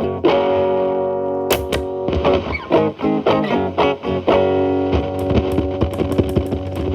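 Telecaster electric guitar played through an MI Audio Crunch Box distortion pedal into a Marshall Valvestate amp's clean channel, with the guitar's volume rolled back so the distortion cleans up to a lighter crunch. A chord rings for about a second, then single notes are picked, quickening into a fast run near the end.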